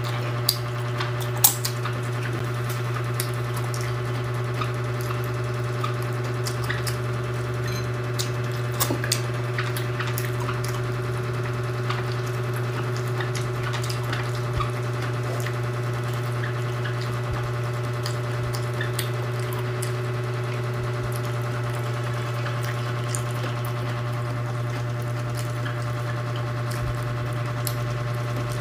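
Faint scattered clicks of a person chewing and eating rice and cabbage by hand, over a steady low mechanical hum.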